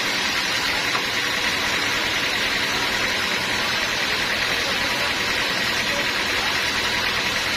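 Sawmill machinery running steadily, a constant mechanical noise with a steady high whine over it.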